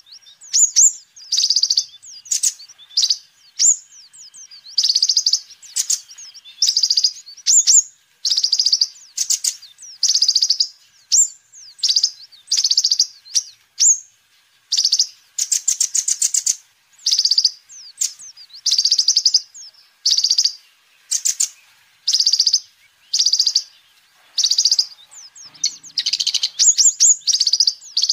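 Kolibri ninja (a sunbird) singing: a run of short, high-pitched bursts of rapid chirps and buzzy trills, one after another with brief pauses.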